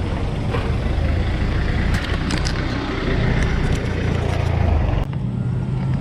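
Road traffic: motor vehicle engines running close by in a steady low rumble, which drops off abruptly about five seconds in.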